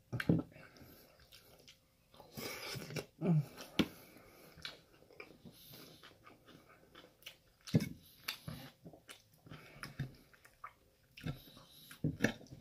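Close-up chewing and biting of a forkful of chicken stir fry, in irregular bursts, with a few sharp clicks of a metal fork against the plate.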